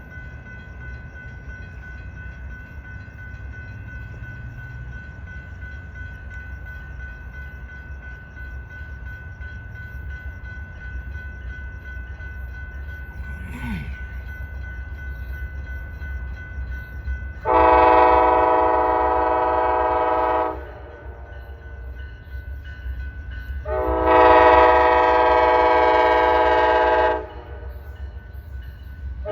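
Amtrak diesel locomotive's air horn sounding two long blasts, the second a little louder, with a third starting at the very end, as the train approaches over a low rumble.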